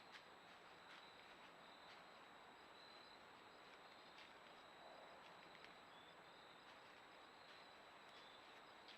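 Faint woodland ambience: a steady high-pitched insect trill, with faint scattered ticks over a soft hiss.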